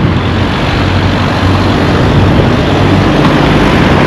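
A motor vehicle's engine running close by with road noise, a steady low hum under a loud even rush.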